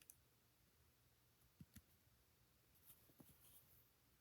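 Near silence, with a few faint clicks and taps of plastic Lego pieces being handled.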